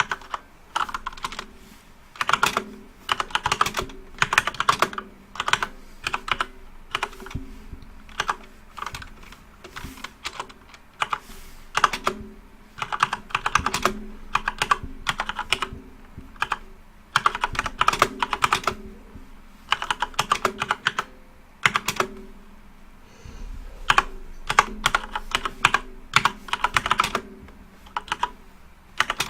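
Light-up computer keyboard being typed on in quick runs of sharp key clicks, with short pauses between the runs.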